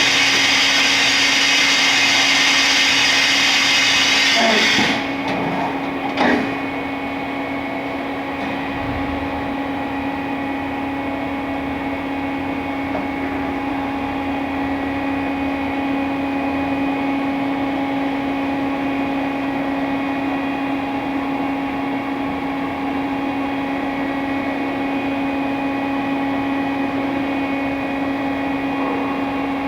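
Fadal VMC4020A CNC vertical machining center running: a loud, high-pitched whir cuts off suddenly about five seconds in, a click follows about a second later, and the machine then hums steadily with a low tone.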